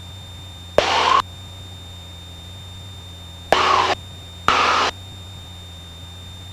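Cessna 172 engine drone, steady and low, heard over the cockpit intercom. Three short bursts of hiss, each starting with a click, cut in about a second in and twice more around the middle.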